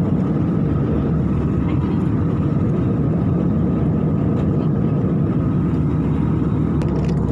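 Steady cabin noise of an airliner in cruise flight: an even engine and airflow rumble that does not change.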